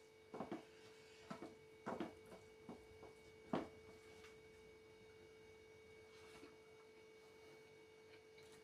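Near silence: a steady faint hum, with about five soft clicks in the first four seconds.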